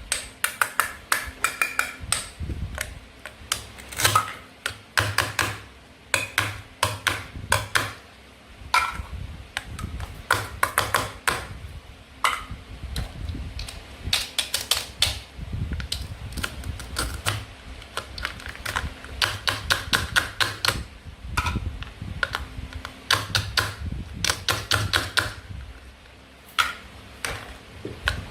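Rapid, irregular clicking and tapping of toy play food being cut apart: a toy knife and the hard fruit and vegetable pieces knocking and clacking on a cutting board.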